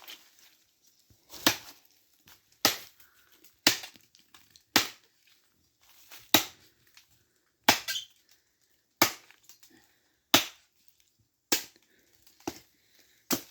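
Chopping into the wet trunk of an old fallen cashew tree with a hand-held blade, about eleven sharp strikes a little over a second apart.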